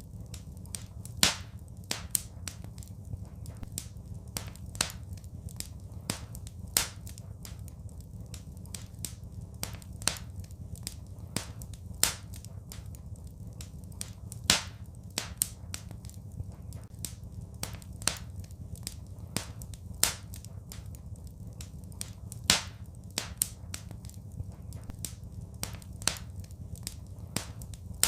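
Wood fire crackling in a fireplace: irregular sharp snaps and pops, a louder one every couple of seconds, over a steady low rumble of the flames.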